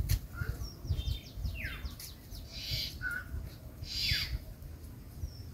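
Birds calling: several quick high calls that sweep downward in pitch, the loudest about four seconds in, over a low uneven rumble.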